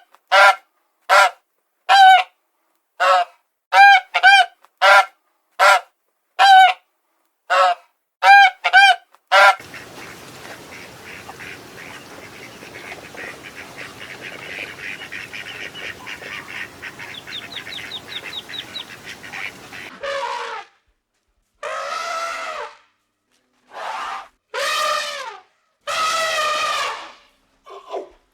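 Waterfowl honking: about a dozen short, sharp honks with brief gaps between them, then a stretch of soft background noise with faint high chirps. Near the end come a few longer, wavering animal calls.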